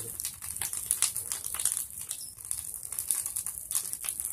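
Bonfire of pruned tree branches crackling, with irregular sharp pops and snaps over a steady hiss.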